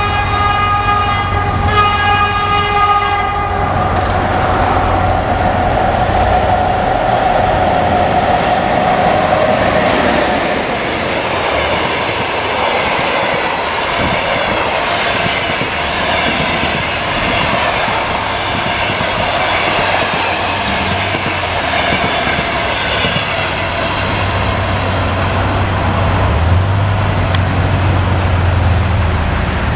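EP1M electric locomotive sounding its horn, a steady chord-like blast that stops about three seconds in, then running past with a tone that sinks slightly in pitch. Its long train of passenger coaches follows, wheels rolling and clattering on the rails as they pass.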